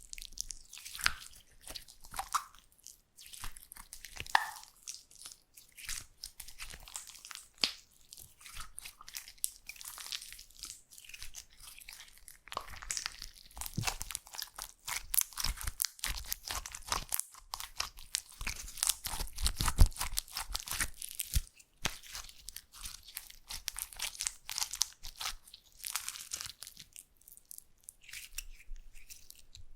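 Slime being squeezed and kneaded close to the microphone: a dense, irregular run of crackles, clicks and small pops.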